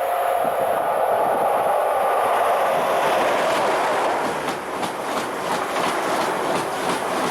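A train passing close by: a steady rumble of wheels on rails, with rhythmic clicking from about halfway through as the wheels cross the rail joints.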